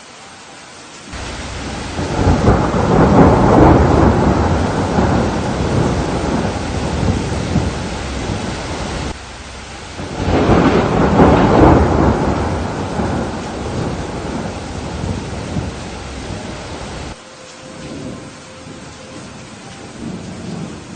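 Steady rain with two long rolls of thunder. The first starts suddenly about a second in, swells and fades, then cuts off sharply; the second builds shortly after, peaks and fades before also cutting off sharply.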